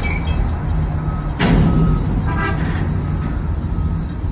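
Freight train cars rolling past at close range: a steady low rumble, with a sudden loud clank about one and a half seconds in and a brief high-pitched squeal shortly after.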